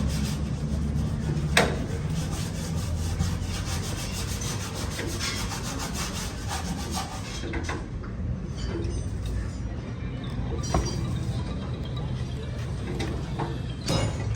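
Repeated rubbing strokes of hand abrasive work on a car door's body panel, with a sharp knock about a second and a half in.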